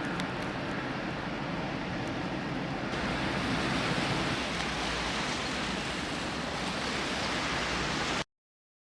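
Steady rushing noise of wind and water, turning brighter and hissier about three seconds in, then cutting off abruptly near the end.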